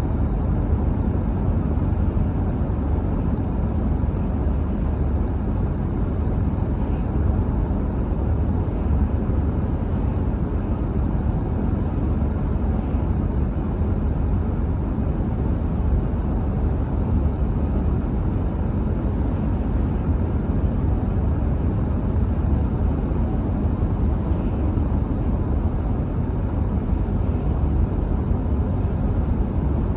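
Steady low rumble of a car driving along a road: tyre, wind and engine noise at an even speed, with no distinct events.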